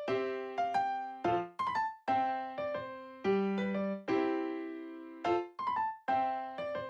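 Background music: a bright piano-like keyboard melody, notes struck in a steady rhythm.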